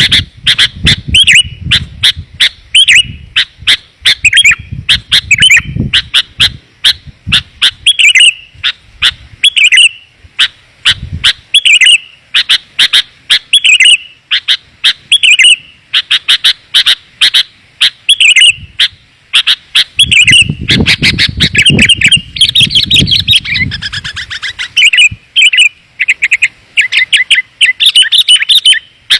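Sooty-headed bulbul lure calls: a dense, fast run of short, clear chirps repeated without pause.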